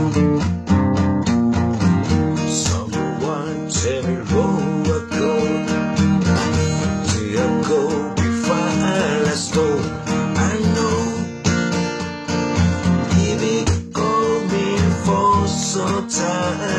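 Music: acoustic guitar strummed in a steady rhythm, with a melody line that bends in pitch above it for much of the passage.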